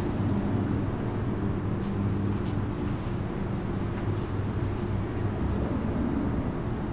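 Outdoor park ambience: a steady low rumble with brief high-pitched chirps from small birds every second or two.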